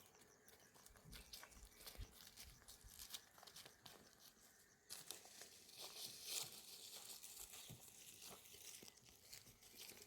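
Faint crinkling and rustling with scattered small clicks, stronger from about five seconds in.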